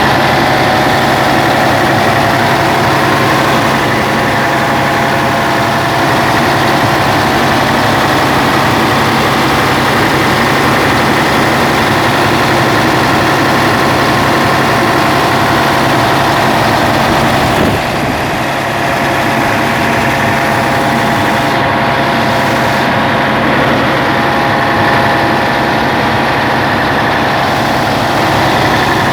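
Freshly rebuilt Scania 112 inline-six diesel engine running steadily and smoothly on its final test run. The level drops slightly about 18 seconds in.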